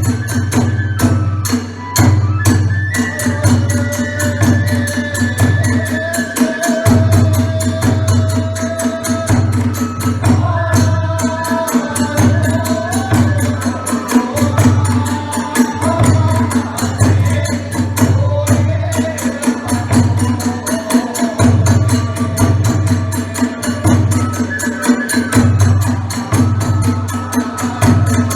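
Kagura festival music: a big drum beating a steady driving pulse, small hand cymbals clashing in a fast continuous patter, and a bamboo flute playing a winding melody over them.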